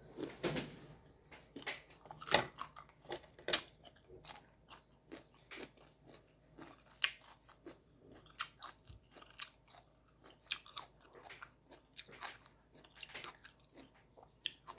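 Close-up biting and chewing of crisp, unripe mango flesh: irregular wet crunches and clicks, a few louder bites among softer chewing.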